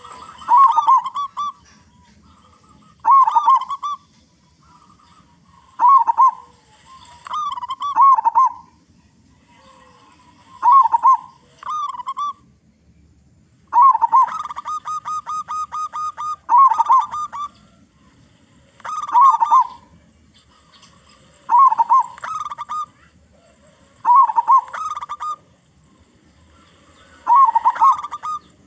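Zebra dove (perkutut) cooing song: short, full-voiced phrases repeated every two to three seconds. About fourteen seconds in comes a longer run of quick, evenly spaced notes.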